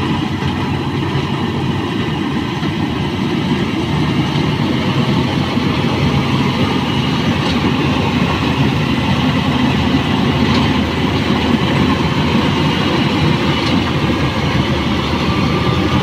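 Changfa full-feed rice combine harvester running steadily at work.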